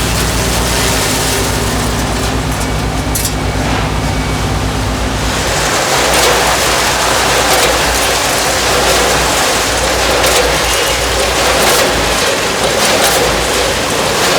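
Snack-factory production machinery running. A steady machine hum for about the first five seconds changes to a louder, noisier clatter with scattered sharp clicks.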